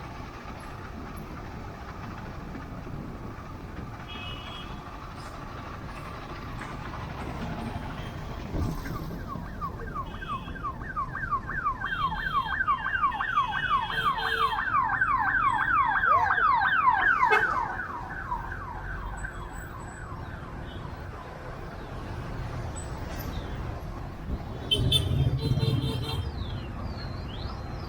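Road traffic with an electronic siren-like vehicle horn. From about ten seconds in, the horn repeats a rising chirp about five times a second for some eight seconds, growing louder before it cuts off suddenly. Short high horn toots sound a few times.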